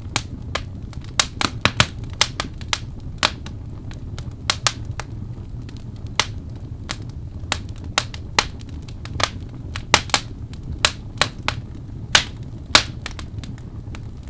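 Wood fire burning in a fireplace, crackling with irregular sharp pops, a few every second, over a steady low rumble of the flames.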